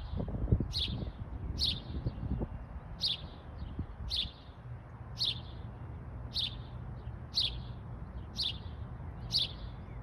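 A small songbird repeating a single short, sharp chirp about once a second, about ten times, a call the uploader thinks may be a house sparrow's. A low rumble sits under the first two seconds or so.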